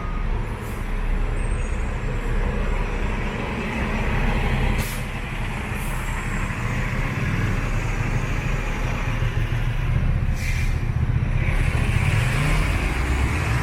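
Heavy vehicle's engine running close by in street traffic, a steady low rumble, with brief air hisses about five, six and ten seconds in, like air-brake releases.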